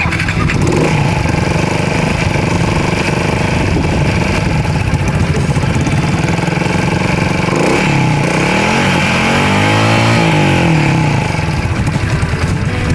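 Small motorcycle engine running steadily. Its pitch rises and falls once between about eight and eleven seconds in.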